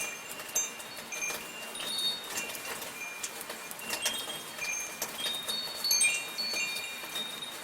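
Metal wind chimes tinkling irregularly, many short ringing high notes overlapping, over a soft steady hiss of falling rain.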